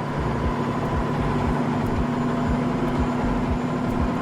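Khlong Saen Saep canal boat's engine running steadily under way, a loud hum with a regular low throb.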